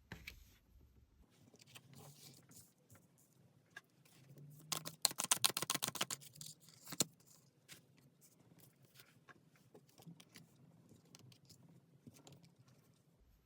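Tarot cards being handled and shuffled, with scattered soft clicks and scrapes and a quick rapid run of card flicks about five seconds in.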